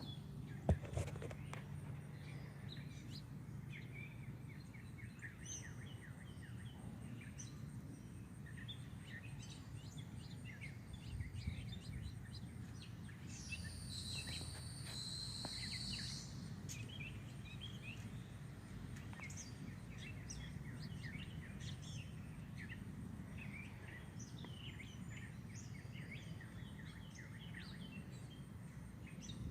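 Small songbirds chirping around a feeder: many short high chirps scattered throughout, with one longer, brighter song lasting a few seconds about halfway through. A steady low rumble runs underneath, and there is a single sharp click just after the start.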